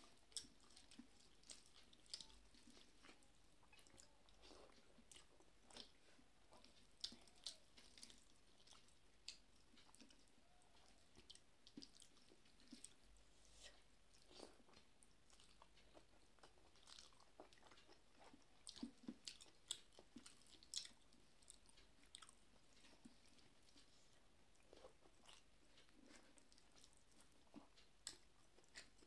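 Faint chewing and soft mouth clicks of a person eating rice and chicken curry by hand, scattered small wet smacks all through.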